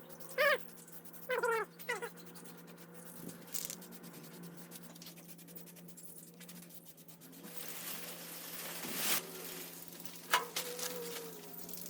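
Several short, high-pitched animal calls, three in the first two seconds and one more about ten seconds in, over a steady low hum and some faint rustling.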